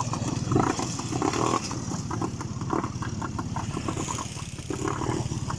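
Quad bike engine running steadily, with a fast, even exhaust pulse.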